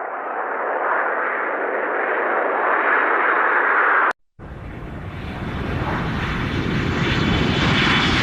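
Rushing vehicle engine noise with no clear pitch, growing steadily louder, in two short clips split by a brief cut of silence about four seconds in.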